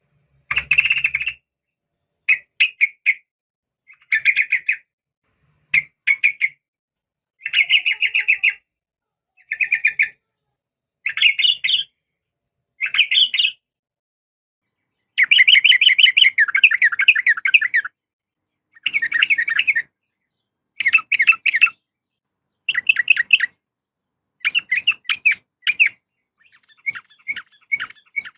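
Yellow-vented bulbul (trucukan) calls, presented as a female calling a male: short bursts of fast chattering notes about a second long, repeated every one to two seconds. About halfway through comes one longer run of chatter, and the last few bursts are fainter.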